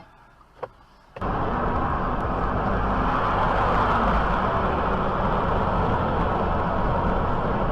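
Steady road and engine noise of a moving car, starting abruptly about a second in after a moment of near silence.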